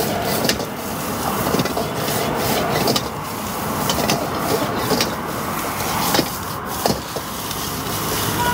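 A metal spatula scraping and tossing food in a wok while stir-frying, a steady rasping scrape with irregular sharp clinks about once a second.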